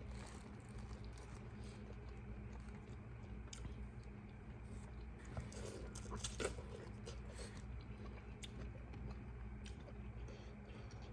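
A person chewing and biting food close to the microphone: wet, smacking mouth sounds with scattered clicks and crunches. The loudest stretch of chewing comes about six seconds in, over a steady low hum.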